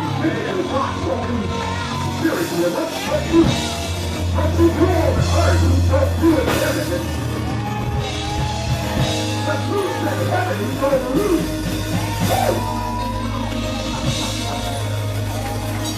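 Live church praise music with a steady bass line and drums, under a congregation singing, shouting and calling out in worship.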